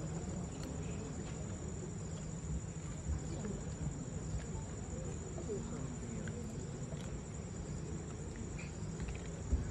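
A night-time insect chorus: a steady, high-pitched trill, over a low background murmur.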